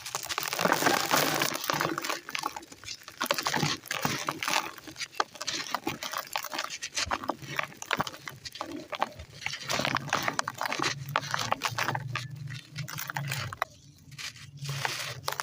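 Dry lumps of gritty red sand crumbled by hand: a dense, irregular run of small crackles and crunches.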